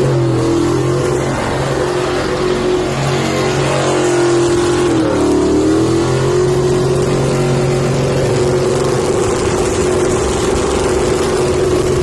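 Truck engine held at high revs, driven hard in an attempt to blow it, with a loud rushing noise under it. The pitch sags briefly about five seconds in and climbs back.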